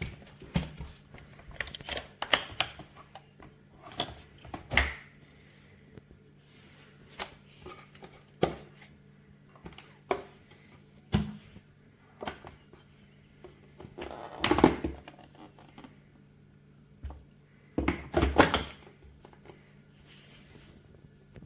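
Irregular clicks, knocks and thuds of hard objects being handled and set down, with short clattering flurries, the loudest about two-thirds of the way through. A faint low hum runs underneath.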